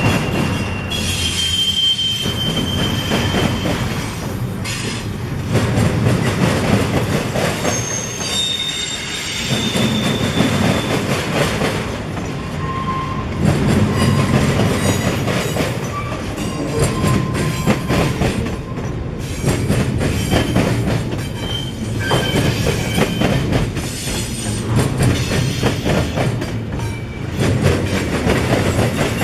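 Freight train cars rolling past, steel wheels clattering over the rails with high wheel squeals that come and go.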